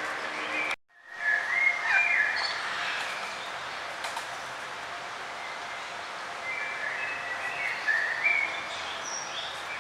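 Several birds chirping and calling in short whistled notes over a steady background hiss. The sound cuts out briefly about a second in, then returns with a louder run of chirps.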